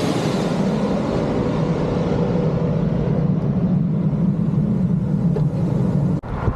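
Steady road and traffic noise heard while cycling, with a jet airliner's high whine fading away at the start. The sound drops out suddenly for a moment near the end.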